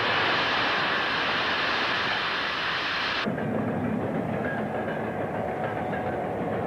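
A train running on the rails: a loud hissing rush that cuts off about three seconds in, giving way to a lower, steady rumble with a faint hum.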